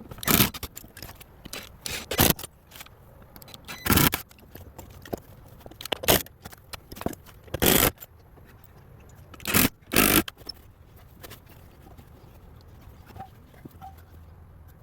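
A run of short, sharp scraping sounds, about eight of them at irregular intervals, stopping about ten seconds in, from hands-on work on a wooden fence.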